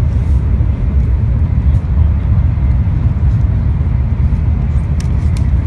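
Steady low rumble inside the cabin of a Shinkansen bullet train under way, with a sharp click or two about five seconds in.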